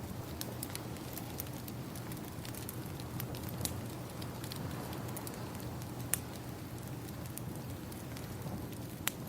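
Crackling wood fire, steady small pops and a few sharper snaps, over a steady wash of ocean waves.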